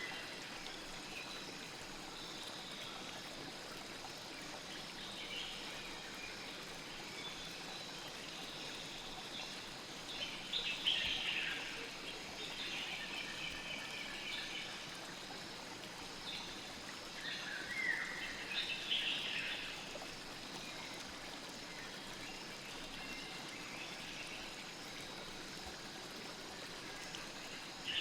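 Steady rushing of a flowing stream, with birds calling now and then over it, most clearly in bursts about ten seconds in and again around eighteen seconds.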